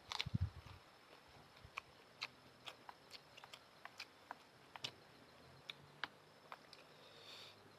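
A person eating noodles, chewing with wet mouth clicks and smacks: a cluster of soft thumps and clicks about half a second in, then irregular sharp clicks a few times a second, with a brief soft hiss near the end.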